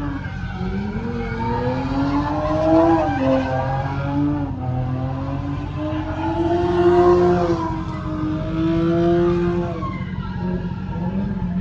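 A car engine held at high revs, its pitch wavering up and down over a steady low rumble, as cars are driven hard at a car meet.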